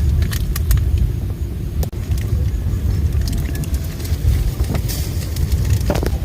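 Heavy rain with a steady low rumble and scattered sharp ticks of drops striking close by.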